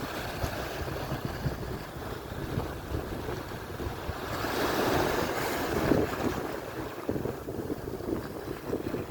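Atlantic surf: waves breaking and washing up the shore, with one wave swelling loudest about halfway through, over wind buffeting the microphone.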